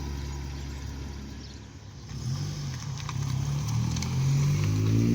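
A car engine running low and steady, then from about two seconds in revving, its pitch climbing and getting louder toward the end as the car accelerates.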